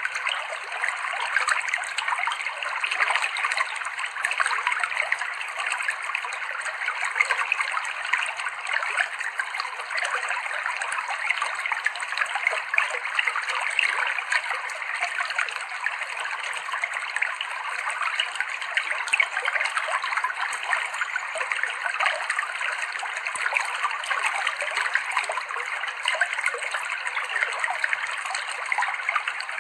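River water flowing over rocks in a steady, unbroken babbling trickle.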